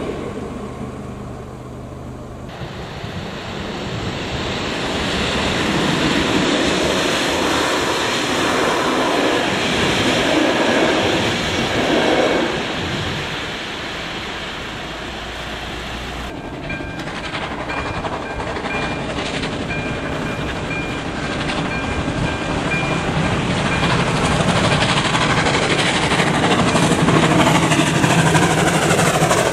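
Trains passing over level crossings, wheels clattering on the rails, in a few short clips one after another. Near the end a steam locomotive hauling coaches rolls over the crossing.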